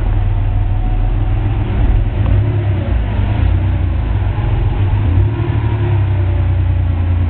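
1986 Porsche 911's air-cooled flat-six engine running with a steady low rumble, swelling slightly about two and five seconds in.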